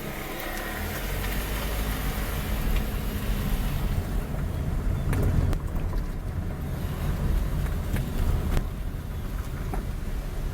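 Low, unsteady rumble of a vehicle on the move, with wind buffeting the microphone and a few sharp clicks.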